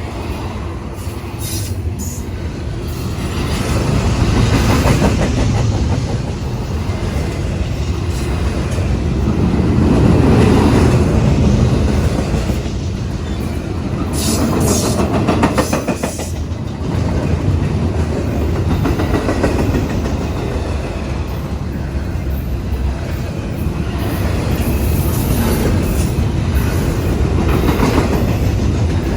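Union Pacific intermodal freight train rolling past close by: a steady loud rumble of wheels on rail with clickety-clack over the joints, swelling and easing as the cars go by.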